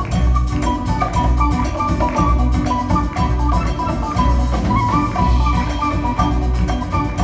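Band playing instrumental Peruvian music: a steady, regular drum and bass pulse under a quick, bright melody.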